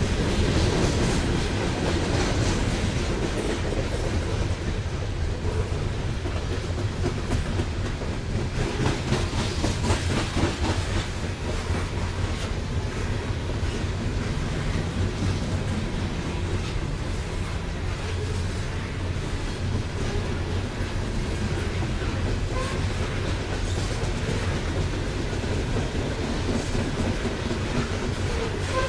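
Freight train of loaded coal hopper cars rolling past, a steady low rumble with wheels clicking over the rail joints.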